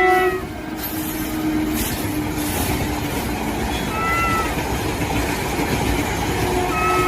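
Battery-powered Thomas toy train running with a steady motor whir, while a cat gives two short, high meows, one about four seconds in and one near the end.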